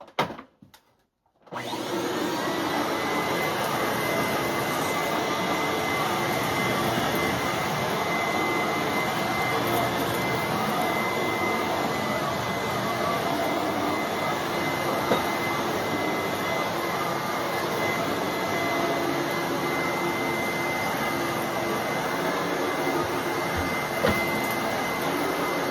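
A 1995 Fantom Thunder vacuum cleaner comes on about a second and a half in, after a couple of clicks, and runs steadily, with a thin high whine over the rush of its air.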